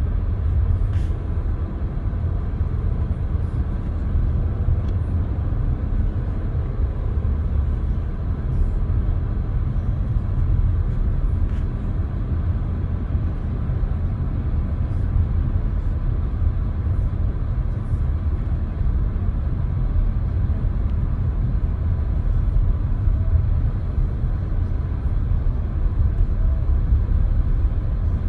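Steady low engine and tyre rumble of a car driving on a snow-covered road, heard from inside the cabin.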